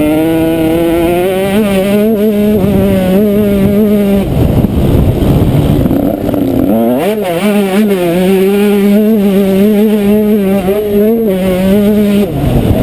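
Motocross bike engine running on throttle, loud and close. About four seconds in, the engine note gives way to a rough noisy rush for a couple of seconds, then revs quickly back up to a steady pull, with a brief dip and rise again near the end.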